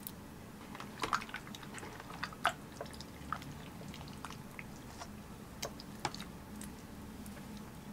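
Close-miked eating of spicy tteokbokki: wet chewing with sharp mouth clicks at irregular moments, over a steady low hum.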